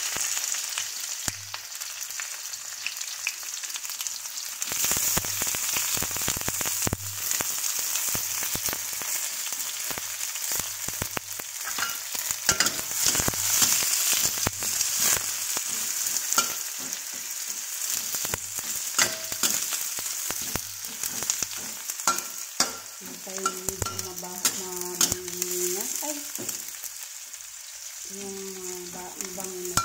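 Garlic and sliced onions sizzling in pork lard in a metal wok, with a metal spatula clicking and scraping against the pan as they are stirred.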